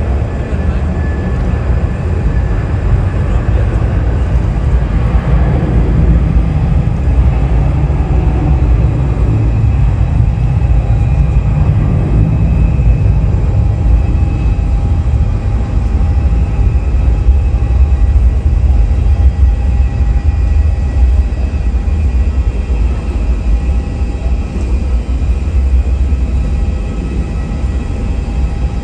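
Jet airliner engines running: a loud, steady rumble with faint steady whines above it, easing slightly near the end.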